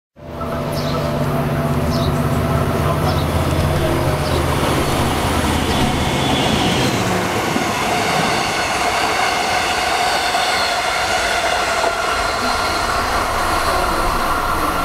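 Long Island Rail Road electric multiple-unit trains running through a station, with steady rolling noise on the rails. A low humming drone for the first half gives way to a steadier higher whine, and a few short squeals come from the wheels in the first few seconds.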